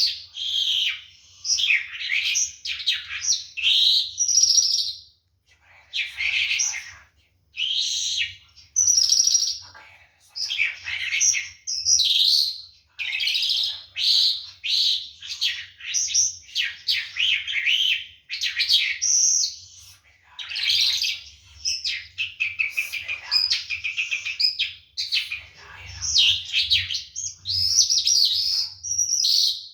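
A lark singing a long run of varied, rapid warbled phrases with short pauses between them, over a faint low hum.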